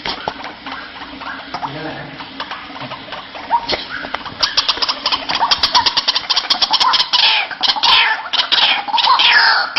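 White-breasted waterhen (ruak-ruak) calling. Fainter calls give way, about four seconds in, to a fast run of sharp notes about ten a second, which builds into loud, harsh repeated calls that swoop up and down in pitch.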